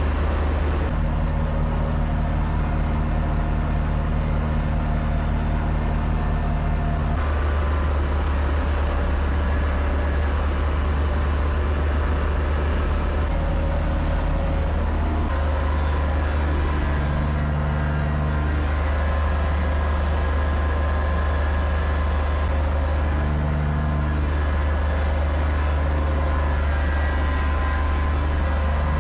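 Kubota tractor's diesel engine running steadily, its note changing now and then.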